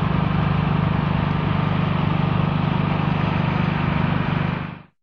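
A vehicle engine running steadily with a low, even drone. It fades out quickly near the end.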